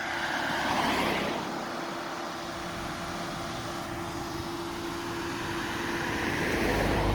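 Motor vehicles passing, a swell of road noise about a second in and again near the end, over a steady engine hum.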